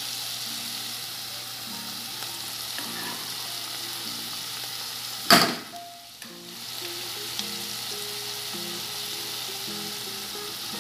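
Diced chicken and sliced green peppers sizzling in a hot frying pan, stirred with a wooden spoon. A single loud burst about halfway through, after which the sizzle briefly drops before resuming.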